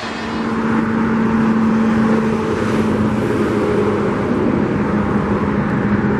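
Road traffic: a vehicle engine running with a steady hum over the noise of the road, swelling over the first second and then holding steady.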